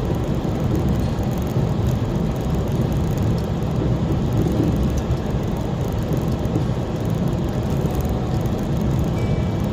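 Steady low rumble of a car's engine and tyre noise while driving, heard from inside the cabin.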